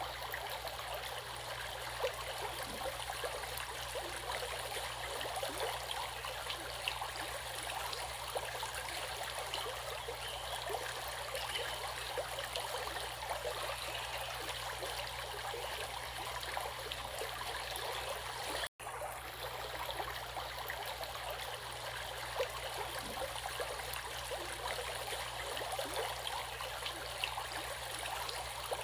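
Stream water running and babbling steadily, with many fine splashes. The sound drops out completely for an instant about two-thirds of the way through, then carries on unchanged.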